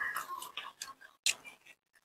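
Close-up chewing of a crisp raw cucumber slice: wet, crackly crunches and mouth clicks in two bursts, the second a short one about a second and a quarter in.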